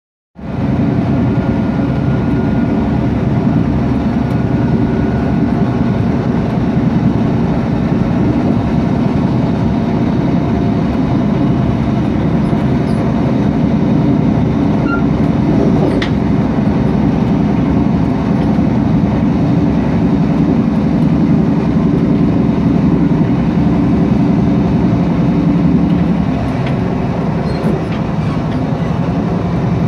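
Mugunghwa-ho passenger train running along the line, heard from inside the carriage as a steady low rumble.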